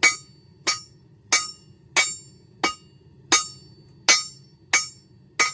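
Hand hammer striking a hot railroad spike on an anvil in a steady rhythm, about one and a half blows a second, each blow ringing metallically, while the spike's metal is drawn out.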